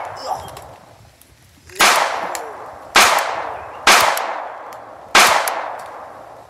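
Four gunshot sounds, each a sharp blast that fades away over about a second. The first comes nearly two seconds in and the rest follow about a second apart, as a toy double-barrel shotgun is fired at a shark puppet.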